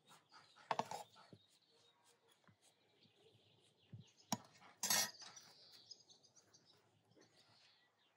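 Sharp clinks and clatter of cooking utensils and dishes being handled: a cluster about a second in, then a single clink and a louder clatter around four to five seconds in. Birds chirp faintly behind.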